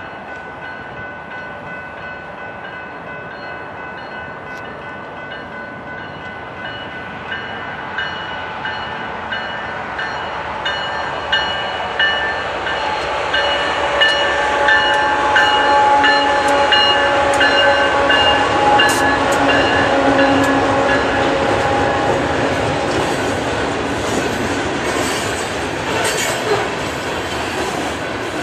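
A BNSF freight train led by three GE diesel-electric locomotives (ES44C4, C44-9W, ES44DC) approaches and passes: its rumble grows steadily louder, peaks as the locomotives go by about halfway through, then settles as loaded cars roll past with sharp wheel clicks over the rail joints. Steady high tones ring over it.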